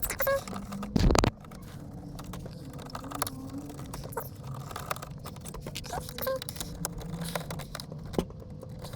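Hands and a screwdriver working at a car's dashboard trim screws: faint scrapes and small clicks, with one loud thump about a second in.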